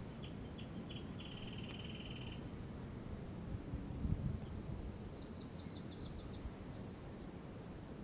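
Small songbirds calling: a series of ticks running into a short, even trill in the first couple of seconds, then a quick run of high notes a little after the middle. Under them a steady low background rumble, with a brief low thump about halfway through.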